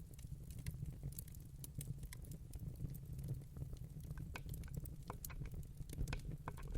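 Wood fire in a fireplace crackling: irregular sharp pops and snaps over a low steady rumble, the pops coming thicker in the second half.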